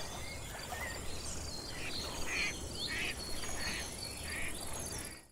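Southern pine forest at dusk: a steady high insect buzz and a regularly pulsing insect chirp, with about four short raspy bird calls from about two seconds in. The sound cuts off abruptly at the end.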